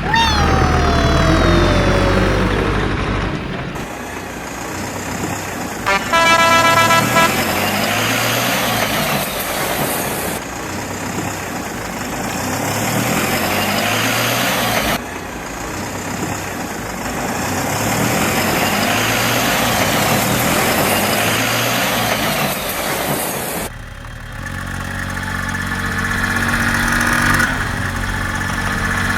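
Vehicle engine sound with a horn honking once for about a second, around six seconds in. From about three-quarters of the way through, a steadier engine hum takes over.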